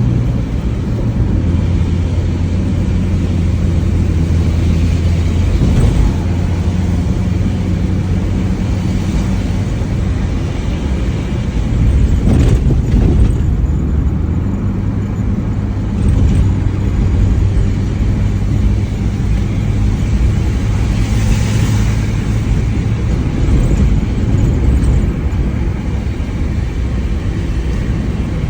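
Mitsubishi Lancer driving along: the engine running with its pitch stepping up and down a few times, over steady road and tyre noise, with two short louder swells, one about halfway through and one about three quarters of the way in.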